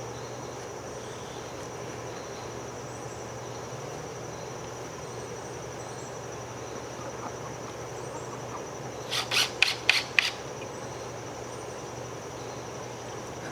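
Ratchet wrench snugging a bolt: five quick rasping strokes in a row, about nine seconds in, left short of fully tight so the joint can still move.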